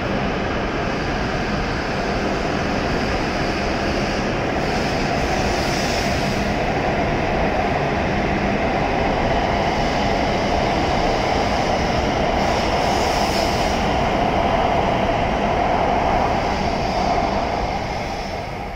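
W7 series Shinkansen train pulling out of the platform and gathering speed: a steady rush of running noise, with a brighter hiss swelling a few times. It fades near the end as the last car leaves.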